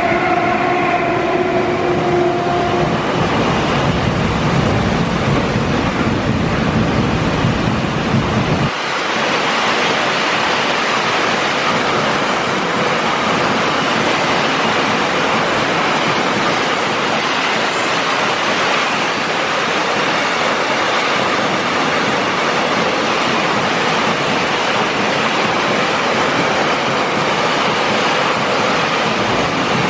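A train horn's last note fades about two seconds in, while a passing train rumbles until it cuts off abruptly about nine seconds in. After that comes steady hiss of heavy rain.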